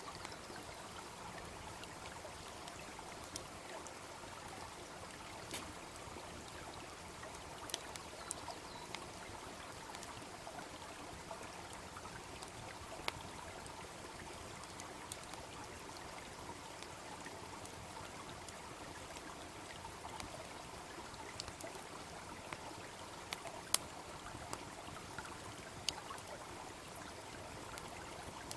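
A small brook babbling steadily, with the irregular sharp crackles and pops of a wood campfire scattered over it; one louder pop comes late in the stretch.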